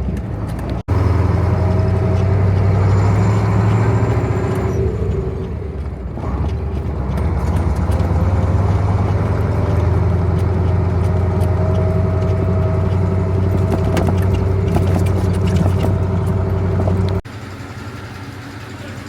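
Heavy diesel engine of harvest machinery running steadily at a constant pitch. The sound changes abruptly about a second in, and again near the end, where it drops to a quieter engine running.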